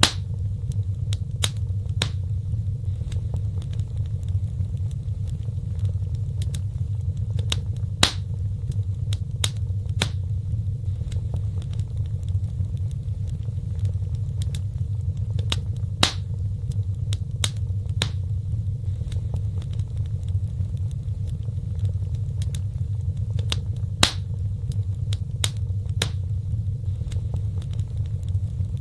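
Wood fire burning in a fireplace: a steady low rumble with sharp crackles and pops at irregular intervals, the loudest pops about every eight seconds.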